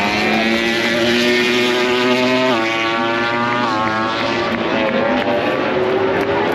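Several MotoGP racing motorcycles at high revs on the circuit, their engines overlapping. The pitch steps up sharply about two and a half seconds in and again about a second later.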